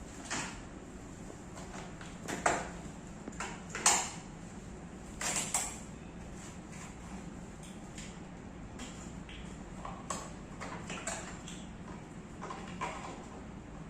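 Scattered clicks and knocks of equipment being handled, the two loudest about two and a half and four seconds in, over a steady low hum.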